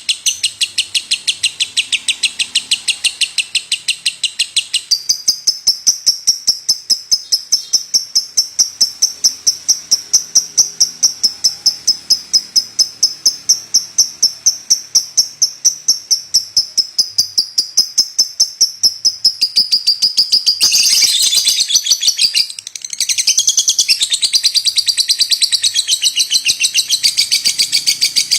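Lovebird singing a long, unbroken run of rapid, high-pitched chirps at an even pace. Near the three-quarter mark the notes turn denser and rougher for about two seconds, then break off briefly before the chirping resumes.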